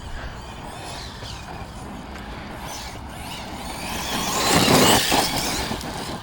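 1:8 Arrma Notorious 6S RC monster truck running, its brushless motor whine rising and falling under tyre noise on rough dirt. The sound swells to its loudest about four to five seconds in, then fades again.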